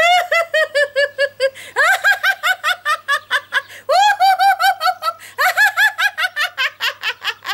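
A woman laughing deliberately in four bouts of quick, evenly spaced 'ha-ha-ha' pulses, each bout opening with an upward swoop. The later bouts are pitched higher as the laughter builds: laughter yoga's gradient laughter, moving from low laughter toward raucous laughter. A faint steady low hum runs underneath.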